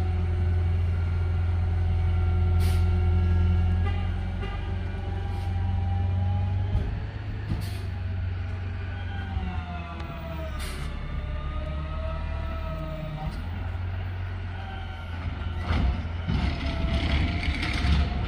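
Garbage truck's diesel engine running steadily, with a whine that slides down and back up in pitch about halfway through, and several short air hisses.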